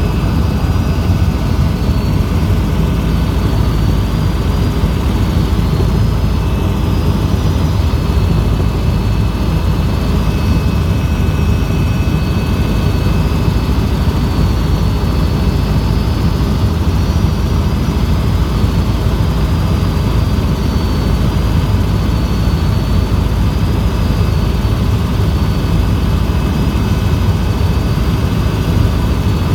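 Helicopter in flight: steady, loud rotor and engine noise with a faint high whine over it.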